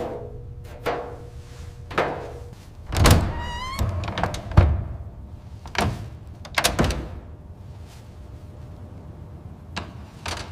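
A series of about eight separate thunks and knocks, with a short rising squeak a little over three seconds in.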